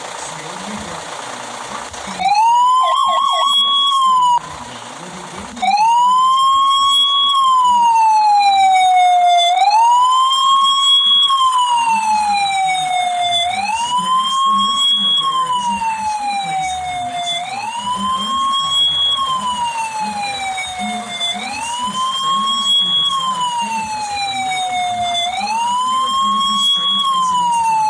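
Fire apparatus electronic siren: a short run of rapid yelp sweeps about two seconds in, a brief break, then a wail that rises and falls about every four seconds, over a low engine rumble.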